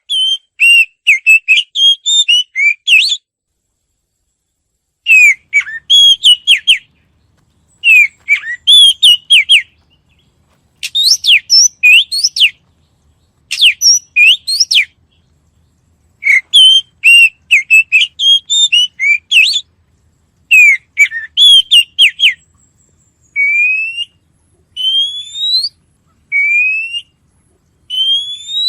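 A songbird singing loud, rapid warbled phrases, each a second or two long with short silent gaps between them; near the end it switches to single rising whistled notes repeated about every second and a half.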